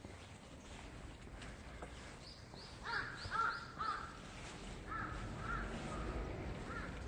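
A bird calling: a quick run of short, repeated calls about two to four seconds in, then a few fainter calls near the end.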